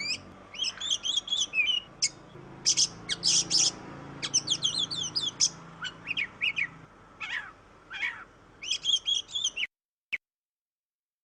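Oriental magpie-robin (kacer) singing in a fast, continuous run of varied whistles and chattering notes, stopping abruptly near the end.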